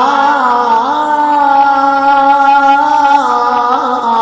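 A man singing an Iraqi Arabic song, holding one long drawn-out note that wavers slightly. The pitch shifts about three seconds in.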